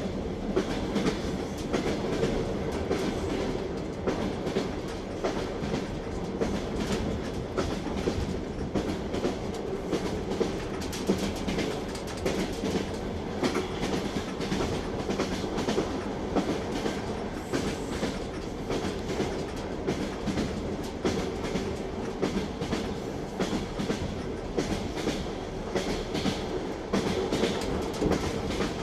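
Train wheels clattering over rail joints, a continuous run of irregular knocks over a steady rumble and hum from a moving railway carriage.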